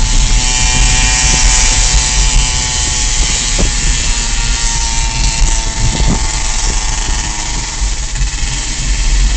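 Dirt bike engine running loudly under a heavy rushing noise, with a couple of brief knocks.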